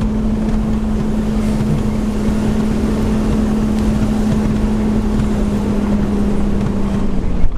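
Vehicle driving at a steady speed: engine drone held at one steady pitch over road and wind noise. The drone drops away shortly before the end.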